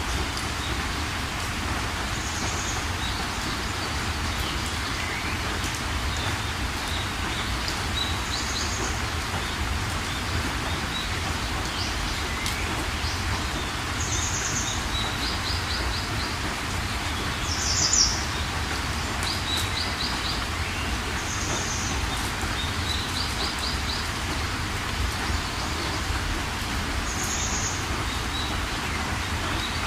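Steady rain with birds calling over it: one bird gives a short high call every few seconds, the loudest about eighteen seconds in, and another repeats quick runs of four or five chirps.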